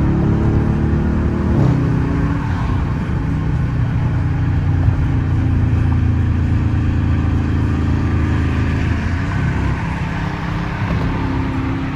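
Straight-piped, catless Dodge R/T V8 cruising, heard from inside the cabin as a steady exhaust drone. Its pitch dips briefly about two seconds in and changes again near nine seconds.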